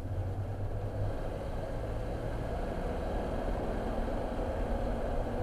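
Car driving along a road: a steady rumble of engine and tyres, growing slightly louder.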